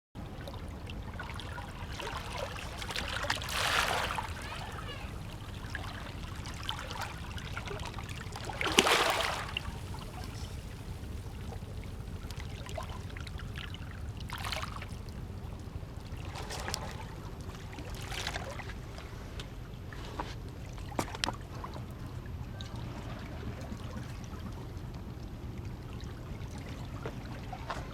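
Sea water washing and splashing against a concrete hollow-block breakwater, with irregular surges; the loudest splashes come about 4 and 9 seconds in. A steady low rumble runs underneath.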